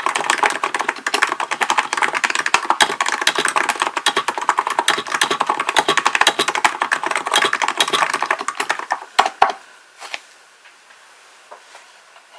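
Hansung GK898B electro-capacitive (non-contact) keyboard being typed on fast and steadily: a dense, continuous run of key strokes. About nine seconds in come two louder separate strokes, and then the typing stops, leaving only a few faint isolated clicks.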